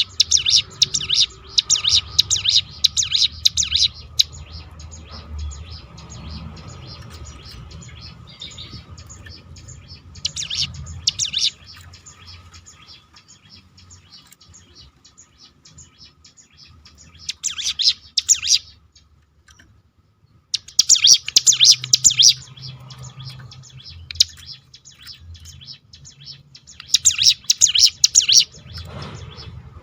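Ciblek gunung (a mountain prinia) singing its rapid machine-gun 'roll', with five bursts of fast high chattering notes lasting one to four seconds each. Quieter gaps with faint chirps lie between the bursts.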